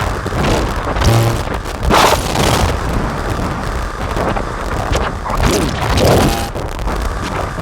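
Dense, distorted electronic noise drone from a Make Noise modular synthesizer run through Death By Audio fuzz and filter pedals. A rumbling low end sits under repeated noisy swells, with short pitched tones about a second in and again near the end.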